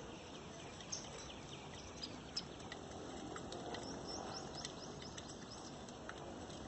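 A flock of Indian silverbills chirping: many short, high chirps, frequent and overlapping, heard faintly.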